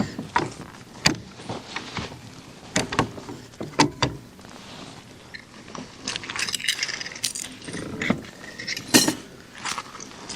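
Irregular clicks, knocks and light metallic rattles of fishing gear being handled aboard a kayak, with a few sharper knocks and a jingling cluster in the second half.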